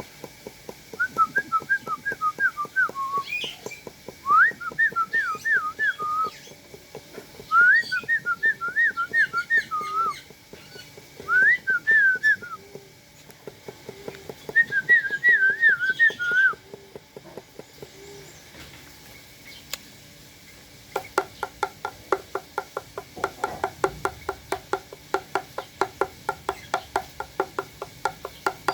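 Whistling in five short, quickly warbling phrases, each lasting a second or two, separated by pauses. This is likely a person whistling to call birds. Near the end a fast, even run of clicks or taps follows.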